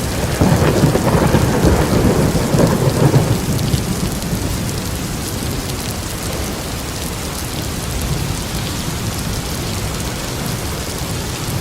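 Steady heavy rain with a roll of thunder that swells just after the start and rumbles for about three seconds before fading back into the rain.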